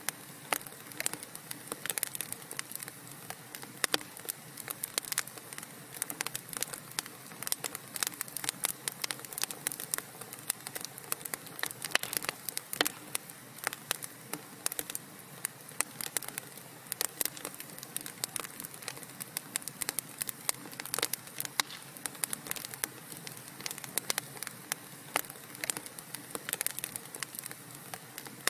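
Wood fire crackling in a fireplace: a constant stream of irregular sharp pops and snaps over a soft hiss.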